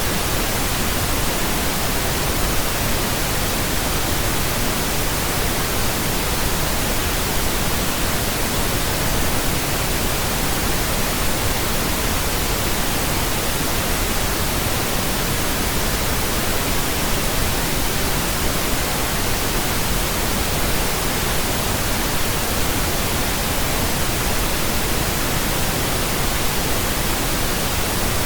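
Steady, unchanging pink noise: an even hiss spread across all pitches, with no events or changes.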